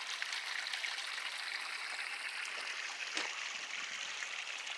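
Runoff water running and trickling steadily through a dug-out ditch, with a single small knock about three seconds in.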